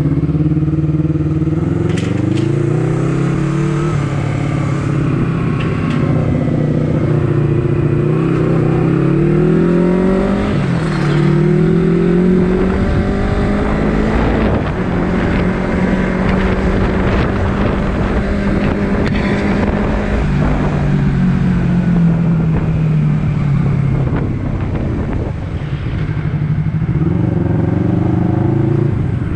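Honda CBR250RR parallel-twin engine on the move. The pitch climbs and then drops back at each upshift several times, holds steady for a while, then falls away as the bike slows.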